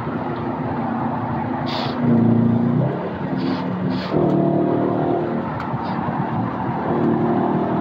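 V8 engine revving on a highway, heard from inside a moving car over road noise. It gets louder in two steps, about two seconds in and again about four seconds in.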